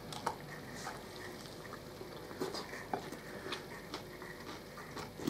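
Two people chewing baked pork on the bone, with faint, irregular eating noises: soft smacks and small clicks scattered every half second or so.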